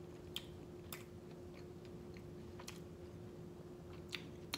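Faint close-miked chewing of blood sausage, with about five short sharp clicks scattered through and a steady low hum underneath.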